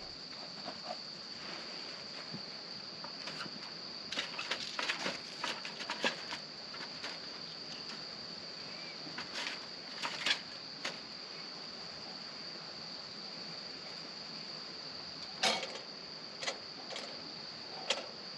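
Insects trilling steadily on one high pitch. Short clicks and crackles come in clusters a few seconds in, about ten seconds in and near the end.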